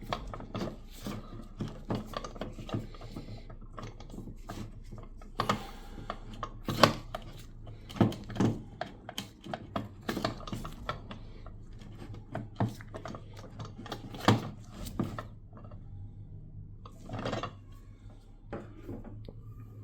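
Irregular knocks, taps and clicks of a wooden coffee grinder's parts being handled and fitted together, a few sharper knocks standing out, over a low steady hum.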